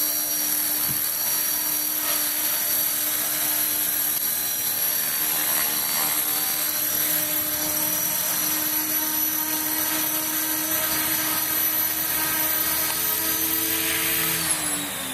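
Radio-controlled Titan model helicopter hovering, its motor and rotors giving a steady whine, then winding down near the end as the throttle is cut.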